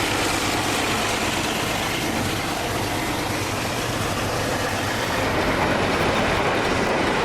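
Diesel locomotive running steadily under power as its train rolls past, a continuous heavy engine and rail noise.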